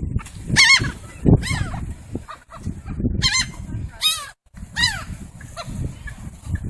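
Birds calling repeatedly while being fed: about five short, pitched calls with a wavering pitch, over a low rumbling noise.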